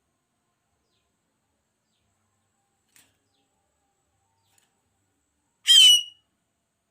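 A bird known in Vietnam as the loan phượng giving one short, loud, harsh call of about half a second near the end, after a near-silent stretch; a call played as a lure for trapping this bird.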